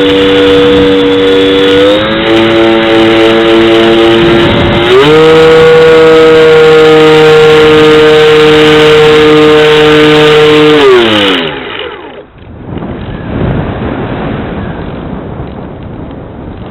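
Brushless electric motor and propeller of a foam RC plane whining loudly at throttle, its pitch stepping up about two seconds in and again about five seconds in. About eleven seconds in, it winds down as the throttle is cut, leaving wind rushing over the onboard microphone.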